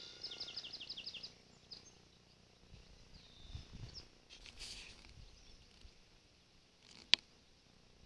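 A songbird sings a quick trill of about eight repeated falling notes in the first second and a half, over quiet outdoor ambience with some low rumble. A single sharp click about seven seconds in.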